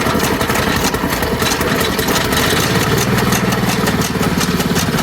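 Small machine engine running steadily just after starting, with a fast, even pulsing.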